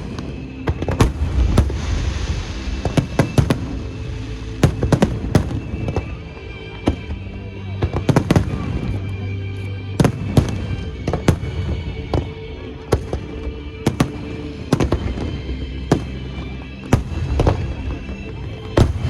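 Fireworks show bursting overhead: a run of sharp, irregular bangs, several a second, over steady music.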